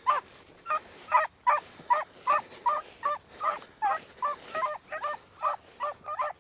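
Beagles baying on a rabbit's scent line in short, quick barks, about two or three a second, as the hounds run the track.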